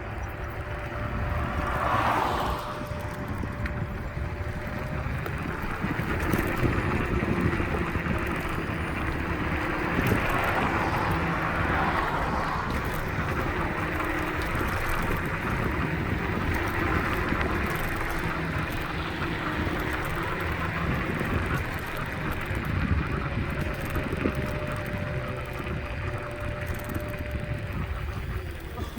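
Wind buffeting the microphone over the rumble of an electric scooter riding along a road. A faint, steady whine comes and goes underneath.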